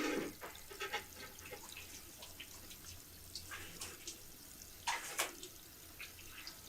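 Sporadic small splashes and drips of water, as at a sink, with two louder clatters about five seconds in.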